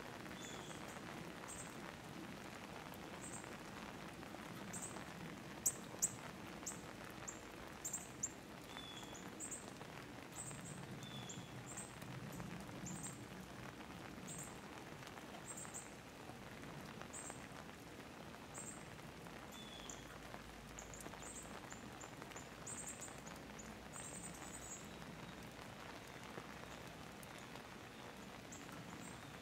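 Steady rain falling, with a few sharp louder drips about six to eight seconds in. Thin, high bird chirps repeat irregularly through the rain.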